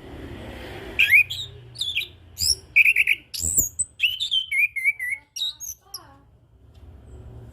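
Orange-headed thrush singing a varied phrase of quick whistled notes, slurred glides and short trills, starting about a second in and stopping about six seconds in.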